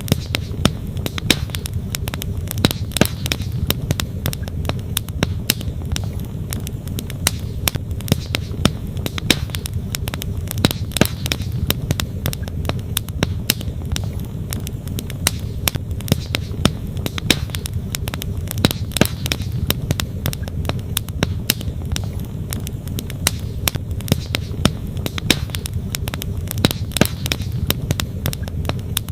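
Wood campfire crackling, with frequent sharp irregular snaps and pops, over the steady rush of a flowing stream.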